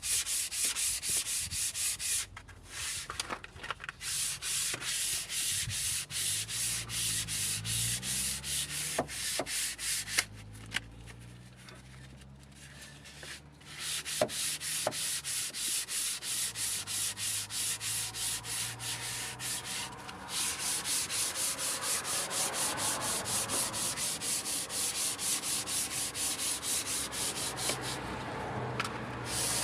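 Abrasive being rubbed back and forth by hand across an engine block's deck surface in quick, even strokes, about three a second, to resurface it for a new head gasket. The strokes pause briefly twice.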